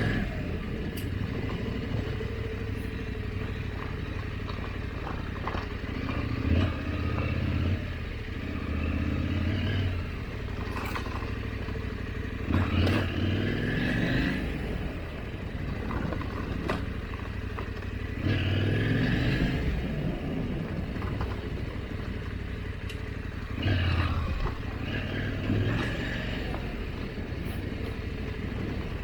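KTM 890 adventure motorcycle's parallel-twin engine running at trail pace, the throttle opened in surges every few seconds. Scattered clicks and knocks run through it.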